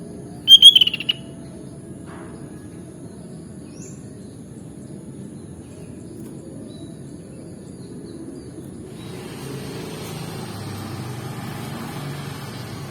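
Sooty-headed bulbul (kutilang) giving one short, loud burst of chirping notes about half a second in, over a steady low background rumble. A soft hiss comes up in the last few seconds.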